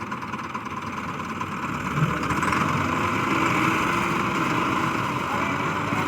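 Tractor engine running steadily, growing somewhat louder about two seconds in.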